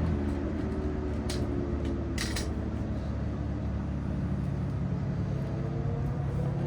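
Engine running steadily at low revs, its pitch sagging slowly and then creeping back up, with two short sharp clicks about one and two seconds in.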